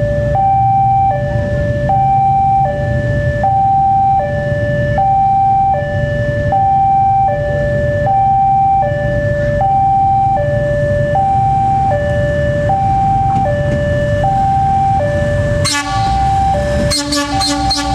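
Electronic railway warning alarm sounding steadily, two tones alternating high-low about every three-quarters of a second, over the low rumble of a diesel railcar. Near the end a train horn sounds loudly over it.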